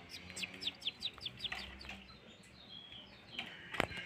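Kecial kuning white-eye singing a fast run of high, downslurred chirps, about five a second, for the first two seconds, then a few softer calls. A single sharp knock near the end.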